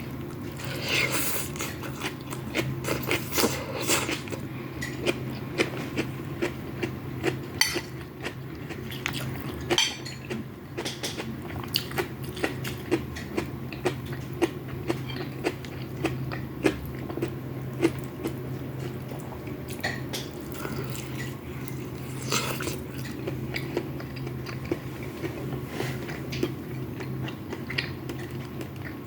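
Close-up eating of fried rice: chewing and biting, with frequent short clinks of a spoon against a bowl, over a steady low hum.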